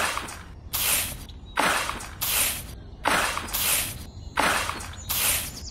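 A miniature metal shovel scooping sand and tipping it into a plastic toy trailer bed, a short gritty hiss with each scoop and pour, about eight in a steady rhythm.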